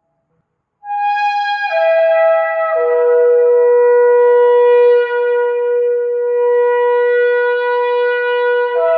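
Shofar (ram's-horn trumpet) blast starting about a second in. A high note drops in two steps to a long held low note, then jumps back up near the end.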